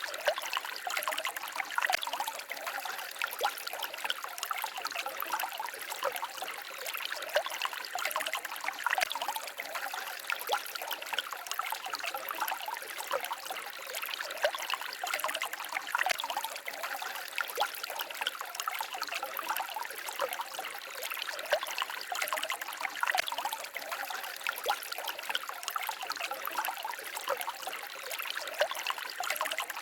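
Gentle stream babbling and trickling steadily: a dense, even patter of small splashes with little deep rumble.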